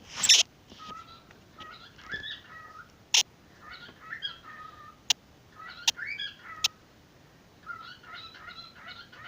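Pet bird chirping and warbling in short broken phrases, with a few sharp, loud single calls: one just after the start, one about three seconds in and others near the middle. Near the end it breaks into a quicker, steadier run of chatter.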